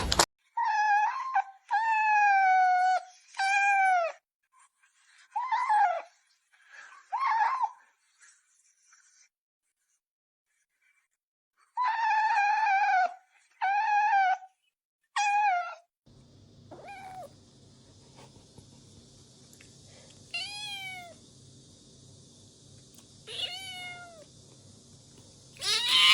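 A kitten meowing again and again: a dozen or so high, arched calls, some over a second long, come in runs with a pause partway through. Later calls are fainter and sparser over a low steady hum.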